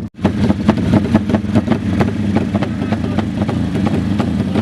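Racing motorcycle engines running, a steady low hum broken by many short sharp crackles, after a momentary dropout right at the start.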